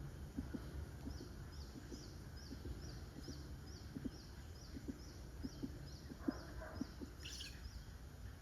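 A small bird repeats a short, high chirp about twice a second, with one louder, different call about seven seconds in. Faint low ticks and a low background rumble sit underneath.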